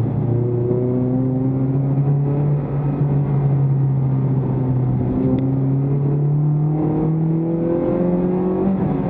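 Toyota Vios race car's four-cylinder engine heard from inside the stripped cabin, pulling under acceleration, its pitch climbing slowly as the car gathers speed.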